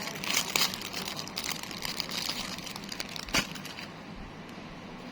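Irregular rustling and clicking handling noises, with one sharper click about three and a half seconds in, then they stop, leaving a steady low hiss.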